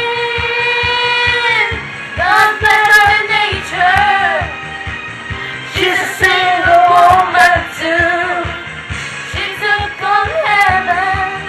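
Voices singing a pop song over a backing track with a steady beat. A long held note opens the stretch, then gives way to short sung phrases.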